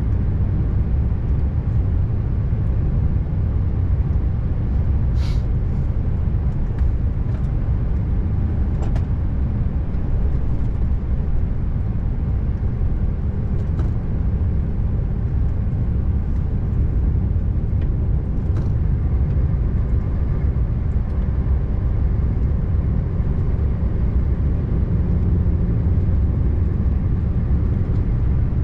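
Scania R590 V8 truck driving at steady speed: an even, low engine and road rumble, with a few faint clicks.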